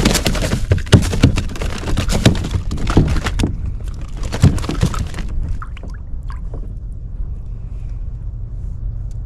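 Water splashing and sharp knocks against a kayak for about the first five seconds, as a freshly landed speckled trout is handled and thrashes, then only a steady low rumble.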